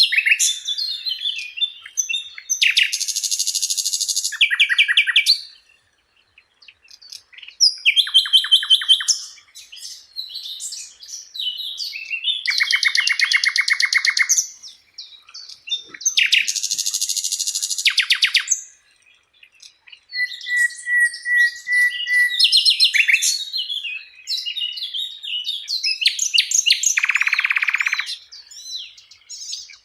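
Sikatan Londo flycatcher singing a long, varied song of rapid chattering trills, buzzy rattles and whistled notes, delivered in phrases with short pauses.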